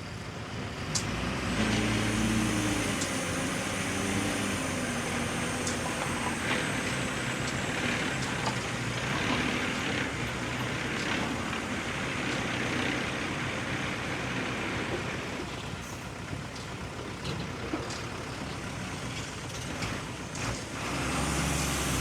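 A heavy diesel construction machine's engine working under load. It revs up a couple of seconds in and then runs on steadily, with a hissing rush over it and scattered clicks and knocks.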